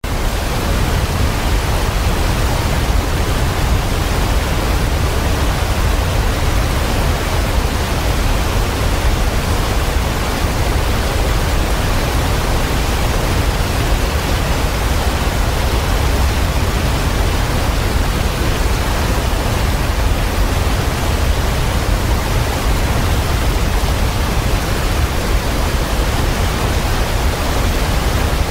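Waterfall: a steady, even rush of falling water, heaviest in the low rumble, cutting in suddenly from silence at the start.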